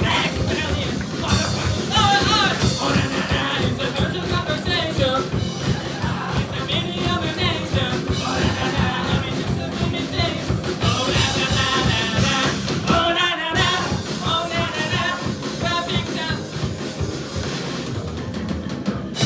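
Rock band playing live, with a lead vocalist singing over loud, dense drums and distorted guitars.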